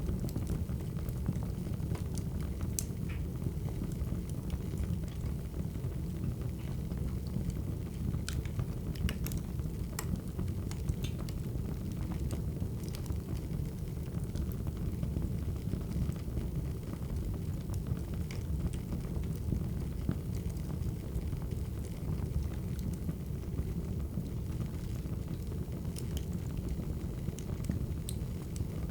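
Wood fire burning: a steady low rumble with scattered sharp crackles and pops from the burning logs at irregular intervals.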